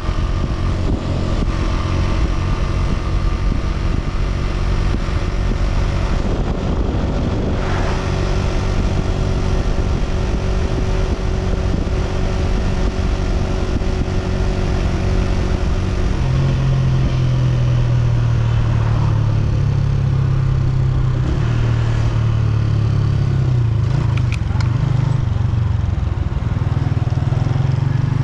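Honda CG125's single-cylinder four-stroke engine running steadily under way, heard from the rider's position. About halfway through, its note deepens and strengthens and then holds.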